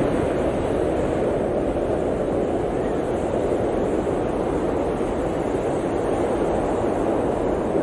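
Blizzard wind blowing steadily, an even rushing noise that holds the same level throughout with no gusts, breaks or other sounds.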